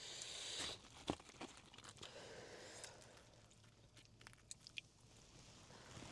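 Faint chewing and crunching of Korean fried chicken, with a brief rustle at the start and scattered small crunches and clicks.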